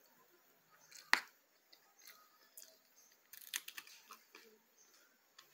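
Close-up eating sounds: faint chewing and mouth clicks over a mouthful of spaghetti, with one sharp click about a second in and a cluster of small clicks a little past the middle.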